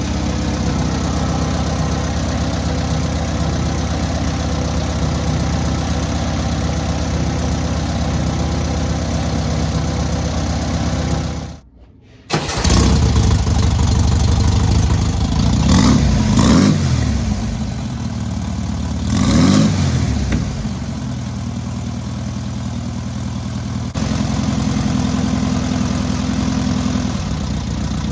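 Freshly rebuilt air-cooled VW 1600cc flat-four engine running during break-in. It runs steadily, breaks off briefly about halfway through, then is revved up twice and settles back to an even idle.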